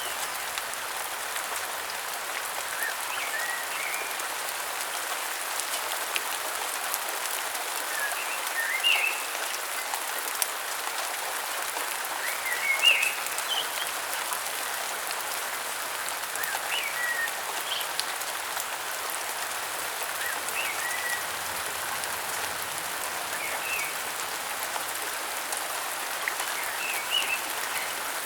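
Steady rainfall hissing, with drops pattering on leaves, while birds give short chirping calls every few seconds.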